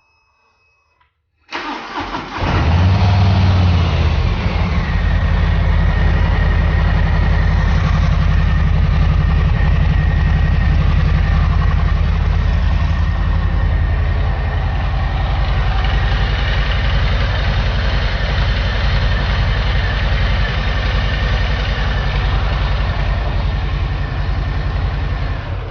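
Harley-Davidson Milwaukee-Eight V-twin started about a second and a half in, flaring briefly as it catches, then idling steadily with its pulsing beat before being shut off near the end. It is being run after a fresh oil change to check for leaks.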